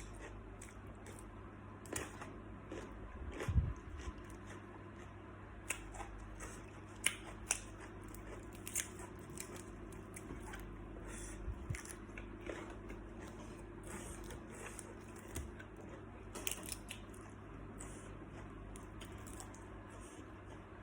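Close-up mouth sounds of eating salt-baked shrimp: chewing and biting, with scattered crisp crunches and clicks and a duller thump about three and a half seconds in.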